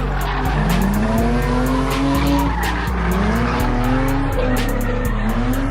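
A car doing a burnout: the engine revs up and down and the tyres squeal. Hip-hop music with deep bass notes and steady hi-hats plays underneath.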